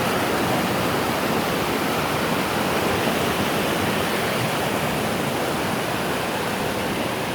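Spring-fed river water rushing steadily, a continuous even wash of flowing water.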